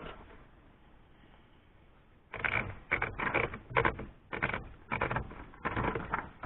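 Remington Noiseless No. 6 typewriter being typed on: after a couple of quiet seconds, a quick run of key strikes in short clusters. It is test typing to check the machine's escapement after adjustment.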